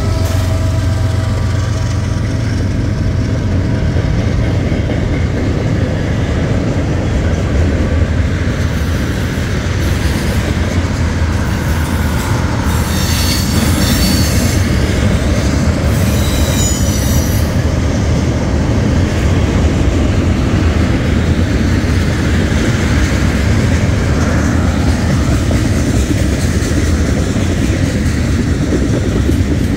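Freight train cars rolling past close by: a steady rumble and clatter of steel wheels on the rails, with the wheels briefly squealing twice about halfway through.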